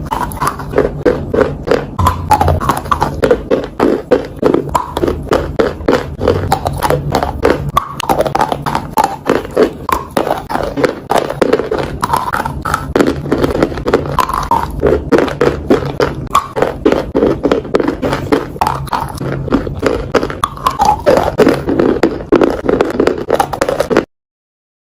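Close-miked crunchy food being bitten and chewed: a dense run of sharp crackling crunches several times a second over a low hum, cutting off suddenly near the end.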